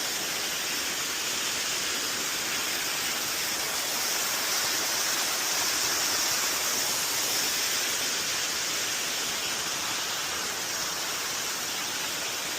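Small jungle waterfall's water falling and splashing, a steady even rush.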